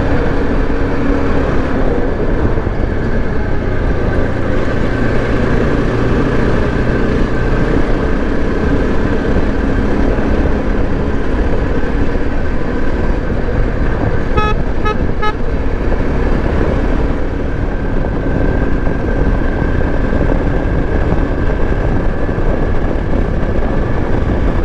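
Yezdi Adventure's 334 cc single-cylinder engine running steadily at highway speed, with road and wind noise. A vehicle horn toots about three times in quick succession a little past the middle.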